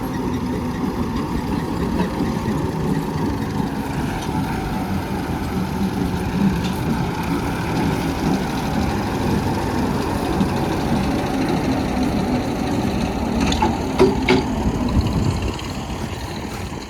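Tractor diesel engine running steadily, with a few sharp knocks about fourteen seconds in. The engine sound drops a little near the end.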